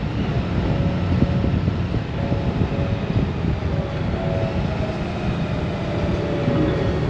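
Honda Gold Wing's flat-six engine running steadily on the move, under a dense rumble of wind and road noise.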